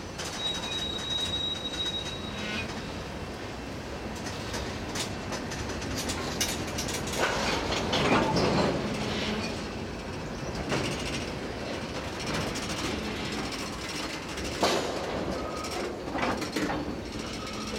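Train rolling slowly through a rail yard during switching, with steel wheels clattering over the rail joints. A thin, high wheel squeal comes in the first two seconds, then several sharp metallic clanks and knocks, the loudest about eight seconds in.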